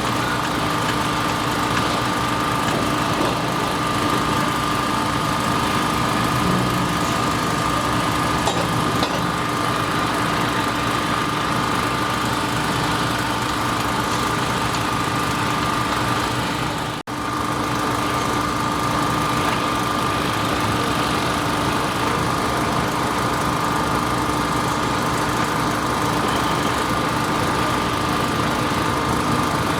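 An engine running steadily, with a constant tone, at a construction site. The sound cuts out for an instant about seventeen seconds in.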